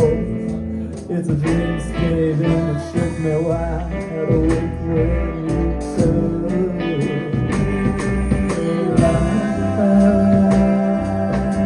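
Live band music: a passage without lyrics, carried by guitar over bass and regular drum hits.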